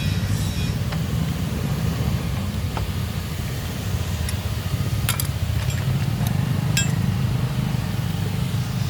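A few sharp metallic clinks of tools on engine parts, the clearest about halfway through and near the end, over a steady low mechanical rumble.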